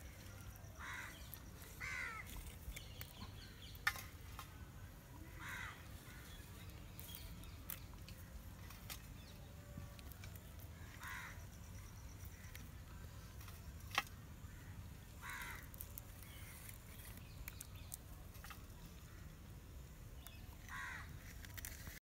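A bird calling faintly with short, harsh, caw-like calls, about six of them a few seconds apart. Two sharp clicks stand out, one about four seconds in and one near the middle.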